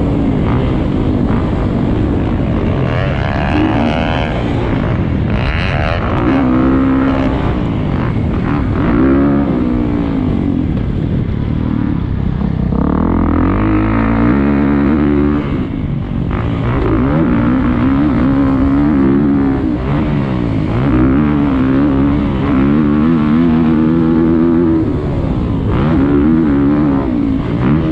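Motocross bike engine running hard around a track, revving up and dropping back again and again as the rider accelerates, shifts and rolls off the throttle.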